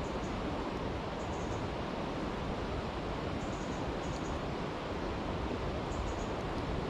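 Steady rushing of a brook, even throughout. Faint short high chirps come every second or two.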